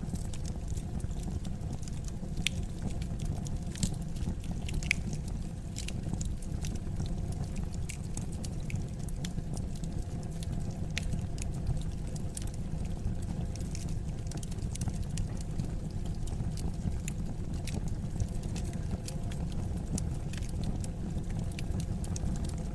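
Wood fire burning in a fireplace: a steady low rumble of flame with irregular sharp crackles and pops throughout.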